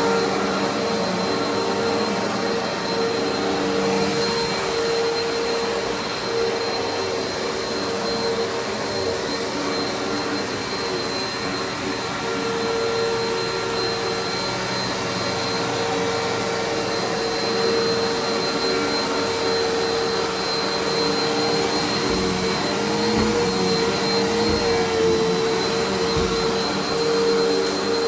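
Eureka Altima upright vacuum cleaner running steadily on carpet, a constant motor hum with a thin high-pitched whine over it.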